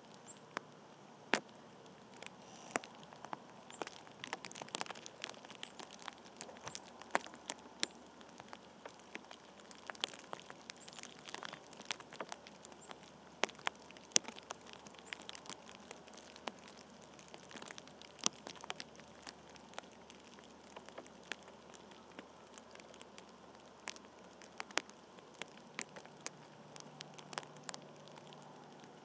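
Irregular sharp ticks and clicks, sometimes several close together, over a faint steady hiss.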